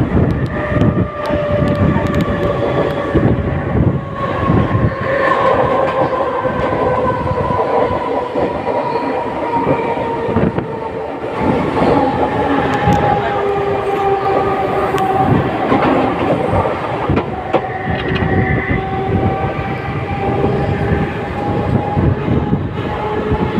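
Electric multiple-unit local train running, with a motor whine that slowly falls in pitch over the clatter of wheels on the rails.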